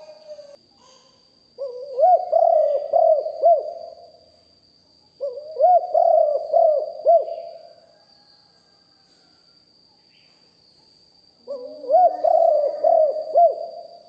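Spotted dove cooing in three phrases a few seconds apart, each a run of several low hooting notes. A thin, steady high tone runs underneath.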